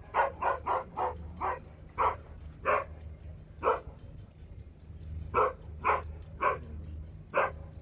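A dog barking about a dozen times: a quick run of barks at the start, then single barks with gaps, and another quick group of three about five and a half seconds in.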